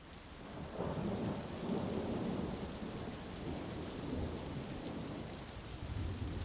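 Heavy rain hissing steadily with a long, rolling rumble of thunder that builds from about a second in and carries on throughout. The sound fades in from a moment of silence at the start.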